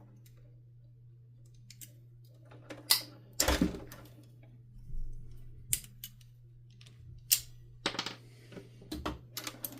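Scattered, irregular clicks and knocks of hands handling the wires, connectors and plastic parts of a canister vacuum being taken apart, about eight in all from about three seconds in, over a steady low hum.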